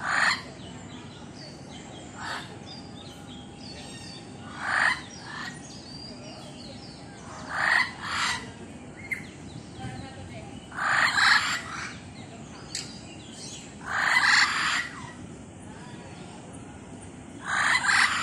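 Aviary bird giving loud, raspy calls, one about every three seconds, with smaller birds chirping faintly between them.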